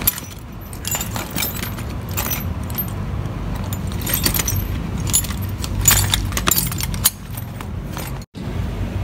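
Small metal parts clinking and rattling in several short clusters, like hardware being handled, over a steady low rumble. The sound cuts out for an instant near the end.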